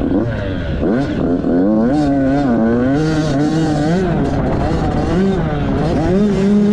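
Dirt bike engine under way, its pitch rising and falling again and again as the throttle is opened and closed.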